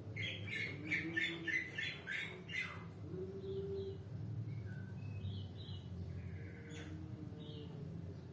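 Bird calling: a quick run of about eight sharp, high notes, about three a second, in the first three seconds, then scattered single calls. A steady low hum runs underneath.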